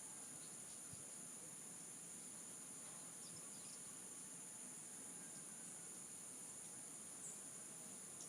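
Faint, steady high-pitched trilling of insects, like crickets, with a few faint distant chirps.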